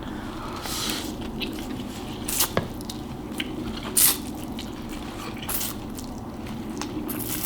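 Close-miked wet chewing and mouth smacks from someone eating saucy noodles mixed with hot Cheetos. Soft squelches and clicks come irregularly, with a sharper smack about four seconds in.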